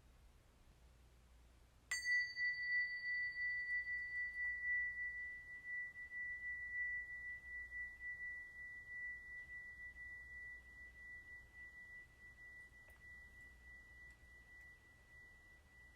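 A single strike on a small metal chime, ringing on one clear high tone that slowly fades, its brighter overtones dying away within the first few seconds.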